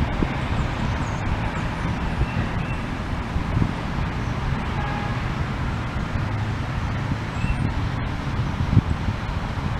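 Steady low outdoor rumble, with a few faint, short bird chirps over it now and then.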